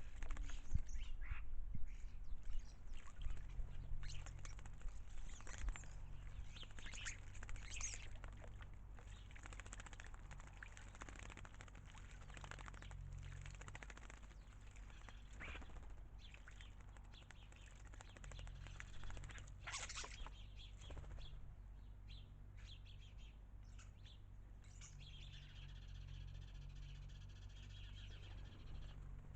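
Small garden birds splashing and fluttering their wings in a birdbath, with scattered chirps and a longer call near the end, over a steady low hum.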